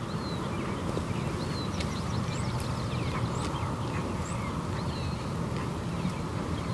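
Birds chirping in short, scattered calls over a steady low rushing background noise.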